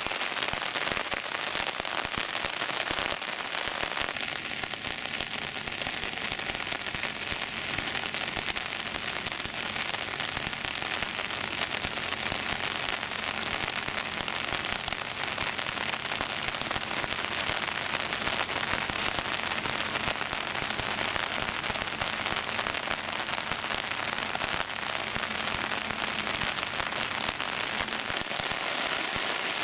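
Steady, even hiss of water, from heavy rain or fast-flowing floodwater. A faint low hum sits underneath from about four seconds in until near the end.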